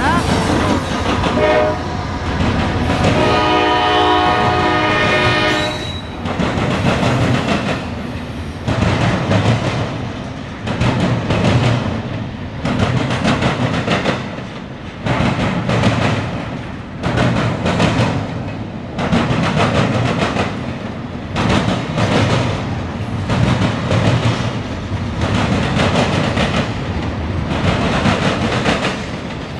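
Norfolk Southern intermodal freight train: the locomotive horn gives a short blast, then a longer one of about three seconds, then the train runs past with a steady clatter of wheels on the rails that swells and dips as the cars go by.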